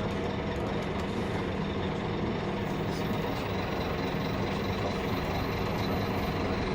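Steady interior noise of a Scania K310UB bus, its engine and drivetrain running evenly, heard from inside the cabin.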